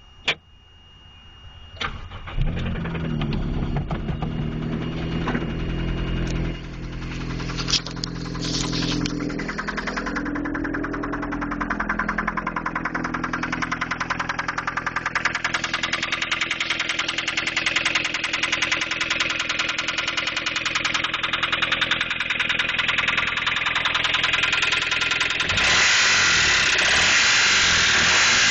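A 1993 Toyota Paseo's 1.5-litre four-cylinder engine starts about two seconds in and runs, revving up and down briefly. It then settles into a steady run with a fast, even ticking, in a motor its seller calls bad.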